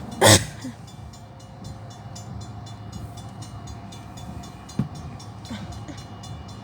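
Freight train rumbling steadily between horn blasts, with one loud sharp bang about a quarter of a second in and a smaller knock near five seconds.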